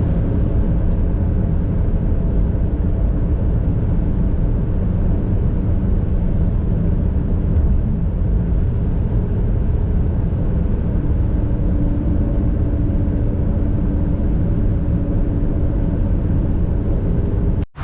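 Vehicle driving at a steady speed: continuous engine hum and road noise, unchanging throughout.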